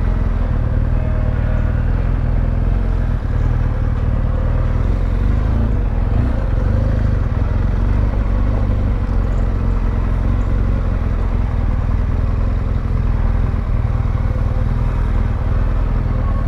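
BMW R1200GS flat-twin motorcycle engine running steadily under way, with a continuous low rumble of engine and road noise heard from on the bike.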